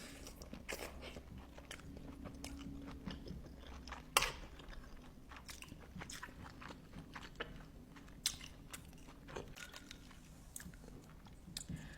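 Close-miked eating: a person biting and chewing crunchy food, with a string of short crackling crunches. The loudest bite comes about four seconds in.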